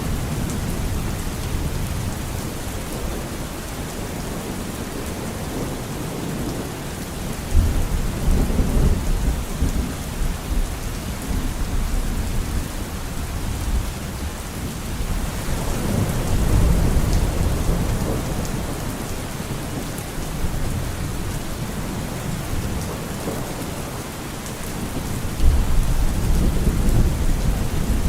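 Steady rain falling, with deep rolls of thunder three times: a sharp crack about a third of the way in, a slower swelling rumble past the middle, and another sharp crack near the end.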